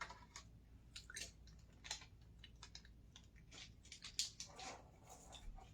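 Near silence with faint, scattered small clicks and soft taps.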